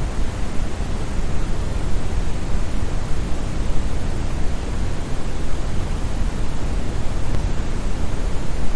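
Synthetic brown noise: a steady, deep, even hiss with most of its weight in the bass, like a great waterfall or wind.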